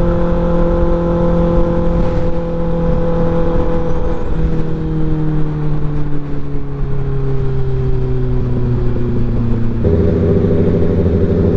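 Motorcycle engine running at highway speed, with wind noise rushing over the microphone. Its pitch slowly falls over several seconds, then jumps up near the end.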